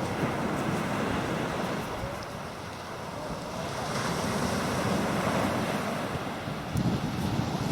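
Sea surf washing onto a beach, swelling and easing, with wind buffeting the microphone.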